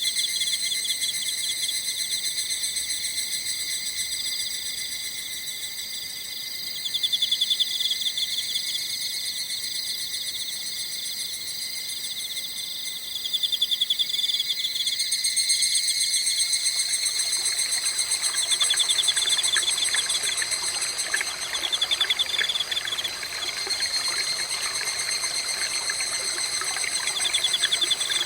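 A chorus of autumn night insects (crickets and similar singers) chirring steadily in several high pitches, with a pulsing trill that comes back every few seconds. About halfway through, the rushing of a small stream joins in underneath.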